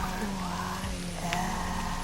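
Calm ambient music of sustained, held tones over a steady hiss of falling rain.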